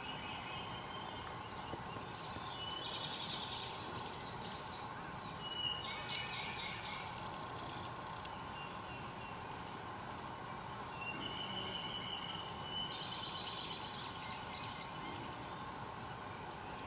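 Wild songbirds singing in repeated phrases, each a held whistled note followed by a quick run of falling notes, over a steady background hiss.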